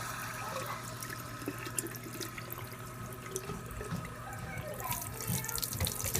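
Water tap running steadily into a sink, opened to test whether hot water is back after the water heater's tripped circuit breaker was reset.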